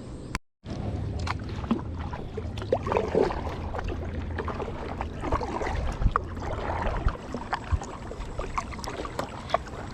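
Kayak paddle strokes in calm river water: the blade dipping and splashing, with drips and small scattered knocks. The sound drops out briefly about half a second in.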